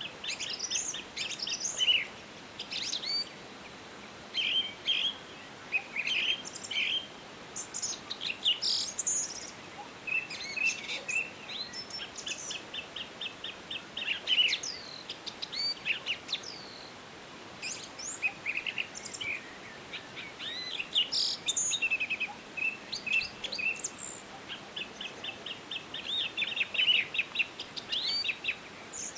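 Several songbirds singing and calling over a faint steady background hiss: many short chirps, rapid trills and quick repeated notes, high-pitched, from more than one bird.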